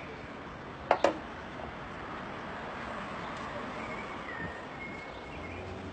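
A car door latching: two quick, sharp clacks about a second in, followed by steady background noise.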